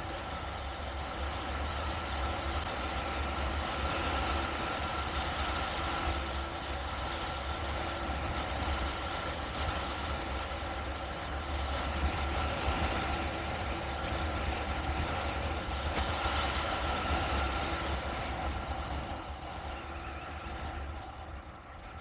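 Steady road and engine noise of a moving vehicle, with a deep rumble underneath; it dies down near the end.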